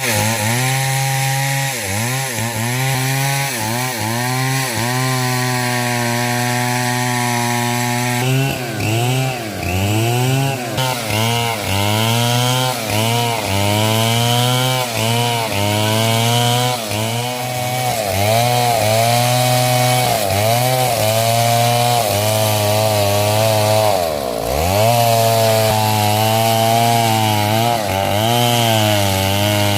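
Stihl MS 070 two-stroke chainsaw running at high revs while cutting hard coconut wood. Its pitch dips and recovers again and again as the engine bogs under the load of the cut and picks back up, with more cutting noise from about eight seconds in.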